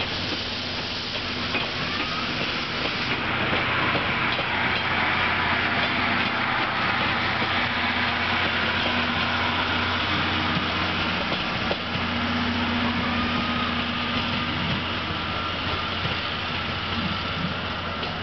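Steam-hauled train of C58 363 and 12-series passenger coaches pulling away from a standstill, its coaches rolling past on the rails with a steady, even noise and a low hum.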